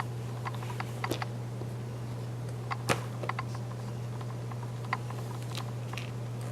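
Sparse light clicks and taps, small puff snacks being handled by a baby's fingers on a feeding tray, over a steady low hum. A pair of taps comes about a second in, a few more near three seconds, and a single one near five seconds.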